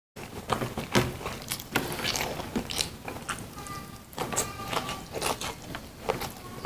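Close-up mouth sounds of a person eating rice with stir-fried green beans and corn by hand: a run of wet clicks and smacks as the food is chewed, with fingers scooping at the plate.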